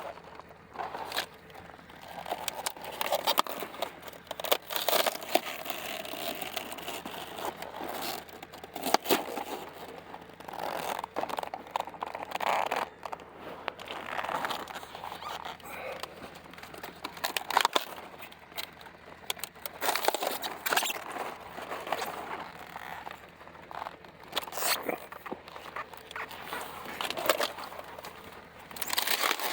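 Fresh cabbage leaves being handled and harvested, squeaking and crunching as they rub, crackle and snap, in irregular clicks and crackles.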